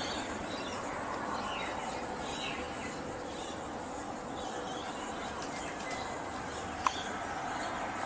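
Faint bird chirps, a few short notes sliding up and down, over a steady background hiss, with one sharp click about seven seconds in.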